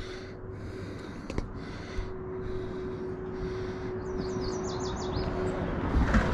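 A songbird singing a quick run of about eight falling whistled notes about four seconds in, over the regular crunch of footsteps on a path and a steady hum.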